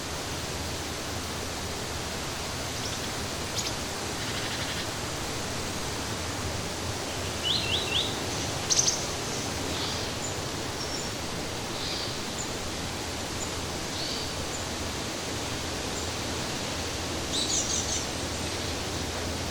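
Small birds chirping in short high calls over a steady, even rushing noise. There is a quick run of three notes about seven and a half seconds in, and another cluster of chirps near the end.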